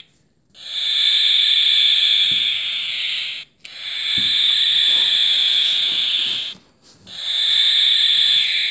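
Recorded barn owl hissing screech played three times by a plush toy's sound box. Each screech is long and raspy with a brief gap between, and the third runs past the end.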